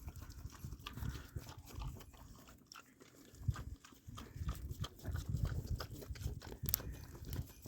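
A farm animal chewing and crunching on a brittle corn tortilla: a run of short crunching clicks over low grunting and rustling sounds.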